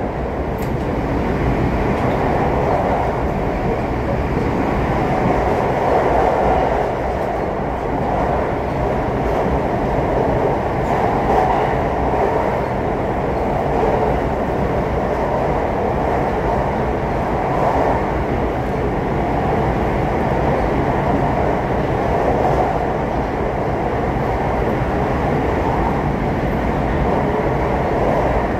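Train running through a tunnel, heard from inside the passenger car: a steady, loud rumble of wheels and running gear.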